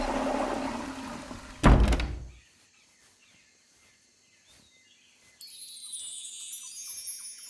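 A steady rushing noise cut off by a single heavy thunk about two seconds in, then a near-silent pause. A faint high shimmering sound comes in near the end.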